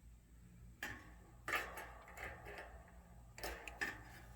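A few faint, scattered clicks and knocks, about five, of dryer parts being handled and set down.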